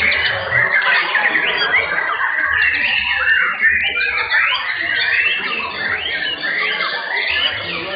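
Chorus of many caged white-rumped shamas (murai batu) singing over one another, a dense tangle of loud whistles, chirps and quick rising and falling sweeps.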